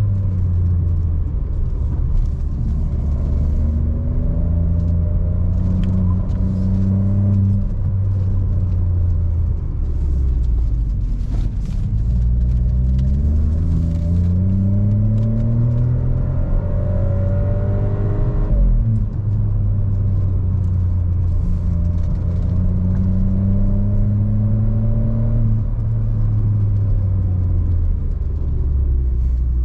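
Seat Ibiza FR's 1.0 TSI turbocharged three-cylinder engine, through a Friedrich sport exhaust, driving and accelerating: the engine note rises and falls repeatedly, with a sudden drop in pitch about eighteen seconds in, typical of a gear change.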